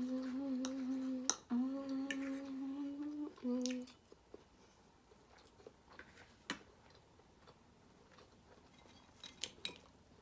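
A woman's closed-mouth hum, a steady held "mmm" in three stretches, briefly broken, over the first four seconds. After it come faint scattered clicks of eating.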